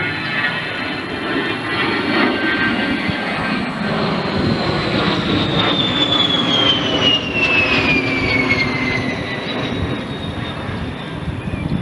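Military aircraft's turbine engines passing by, a steady engine rush with a high whine that glides down in pitch about halfway through as the plane goes past.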